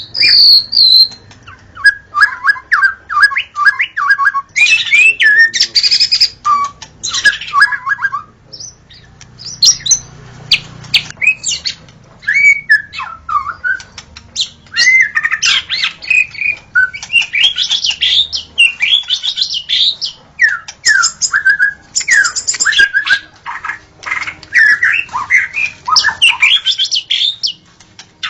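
White-rumped shama (murai batu) singing: loud, varied phrases of rich whistles, slurred notes and rapid chattering runs, each phrase separated by a short pause.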